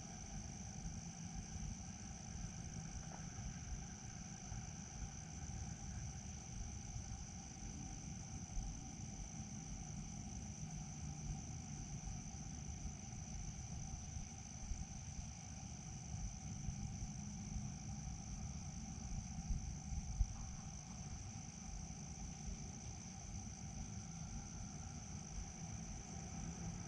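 Crickets chirring in a continuous, steady high-pitched chorus, over a low uneven rumble.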